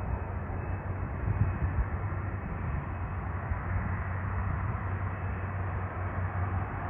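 Jet aircraft engines heard as a steady low rumble with a rushing hiss.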